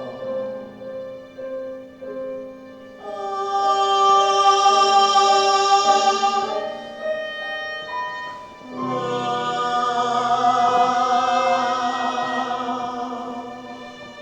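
Musical-theatre song: sung voices hold two long notes with vibrato over instrumental accompaniment, the music fading out near the end.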